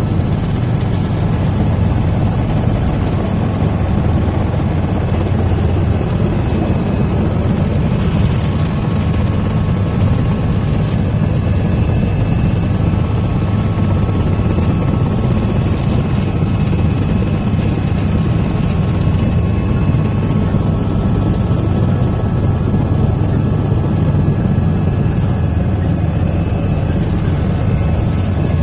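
Helicopter running with a steady, loud rotor and turbine drone and a faint high whine above it.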